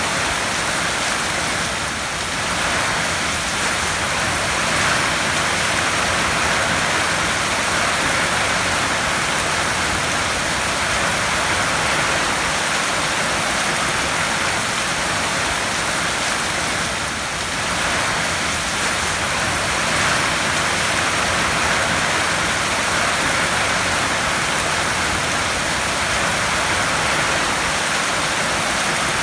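Heavy rain falling on a tin roof: a steady, dense hiss.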